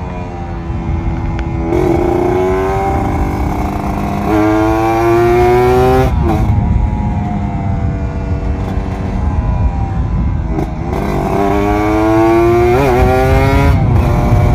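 Kawasaki Ninja 150 RR two-stroke single-cylinder engine accelerating under way. Its pitch climbs and drops back at each gear change, several times over, with wind rumble underneath.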